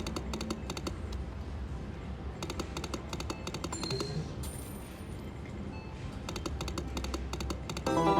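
Slot machine sound effects during play: clusters of rapid clicking ticks as the reels spin and stop, with a few short electronic tones. A brief, loud chime sounds near the end, over a steady low casino hum.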